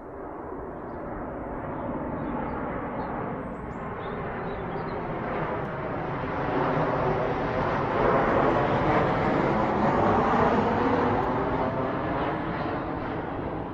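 A continuous rushing noise that slowly builds, peaks about two-thirds of the way through, then eases off.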